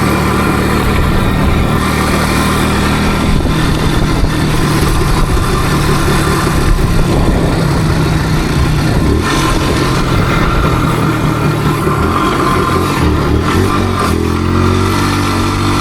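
Motorcycle engine running under way, its pitch rising and falling with the throttle and climbing in a rev-up near the end.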